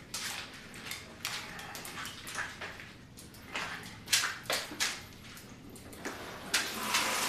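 Scattered knocks, clicks and rustles of someone handling things and moving about in a small room, then running water starts near the end and keeps going.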